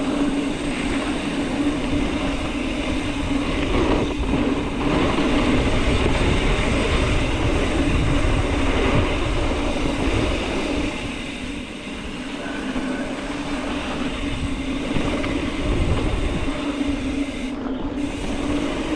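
Mountain bike rolling fast down a smooth dirt trail: steady tyre and drivetrain hum with gusty wind rumble on the microphone.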